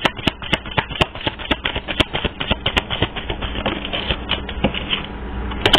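A deck of oracle cards being shuffled by hand: a rapid, irregular run of clicks.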